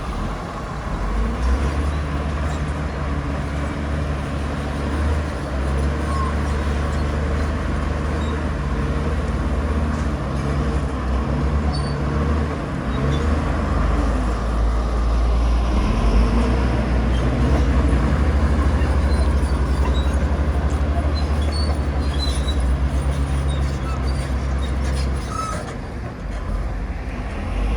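Heavy diesel earthmoving machinery running steadily with a deep engine drone, with a slight dip a little before the end.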